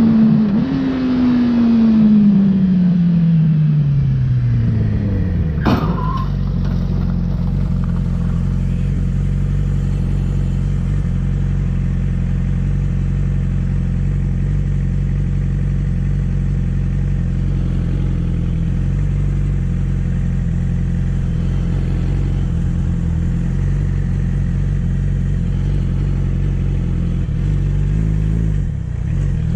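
Motor vehicle engine running, its pitch falling steadily over the first five seconds as it slows, then settling into a steady low drone. There is a short sharp knock about six seconds in.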